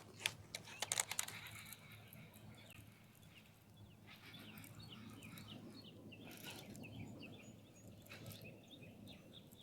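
Faint chirping of small songbirds, many short chirps from about four seconds in, after a few sharp clicks and taps in the first second or so.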